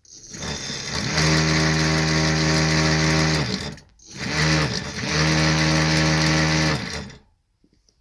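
Hoverboard hub motor friction-driving a knobby bike tyre, run up twice on the thumb throttle: each time the pitch rises, holds steady for about two seconds, and winds down. The knobby tread makes it sound like a motorbike.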